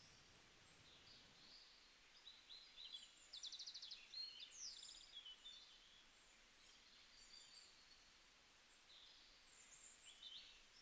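Faint birds chirping in the background, short high calls with a quick trill about three and a half seconds in, over near silence.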